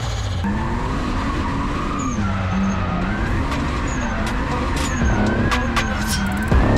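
Onboard sound of a drift car's straight-six engine on track, the revs rising and falling again and again as the throttle is worked through the corner. It gets louder near the end.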